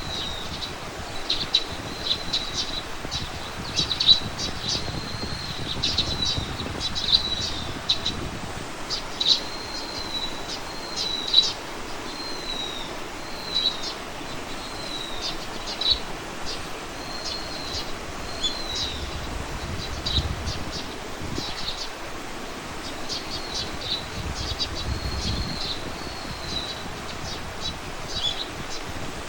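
Small songbirds calling over and over with short high chirps and brief whistled slurs, above a steady outdoor hiss, with low wind rumble at times.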